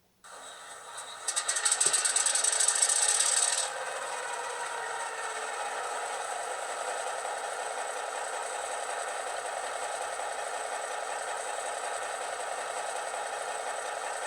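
ESU LokSound v5 sound decoder in an HO-scale Atlas MP15DC model locomotive playing a diesel engine start-up through two small sugar-cube speakers. It begins about a quarter second in and grows louder with a hissing burst for about two seconds, then settles into a steady, throaty idle.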